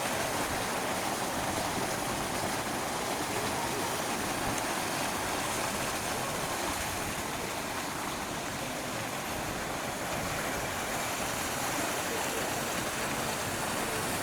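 Steady rushing noise of running water, even throughout.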